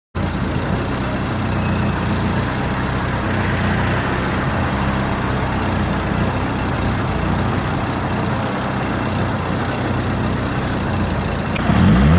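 SEAT Sport 1430 'Bocanegra' four-cylinder engine idling steadily, then starting to rev up near the end.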